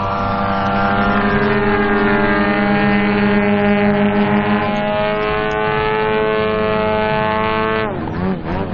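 Engines of two Extra 330SC model aerobatic planes running steadily in flight, their tones slowly drifting in pitch; near the end the pitch dips and wavers.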